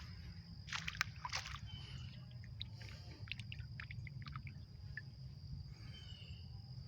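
Shallow creek water sloshing and trickling around wading feet, with a few sharp clicks and small knocks, most of them in the first half.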